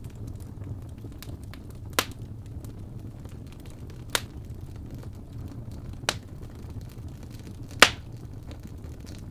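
Wood fire crackling in a fireplace: a low steady rumble with four sharp pops about two seconds apart, the loudest near the end, and faint small crackles between.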